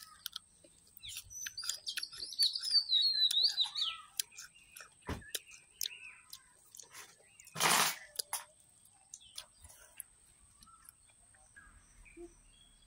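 A songbird singing a quick run of falling chirps for about three seconds, with a few softer calls after. Small clicks and taps from mango slices being handled on a paper plate, and a short noisy burst about halfway through.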